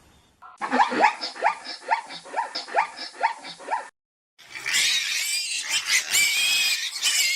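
Animal calls: a quick run of about ten short pitched calls, roughly three a second, then after a brief break a dense chorus of many overlapping high calls.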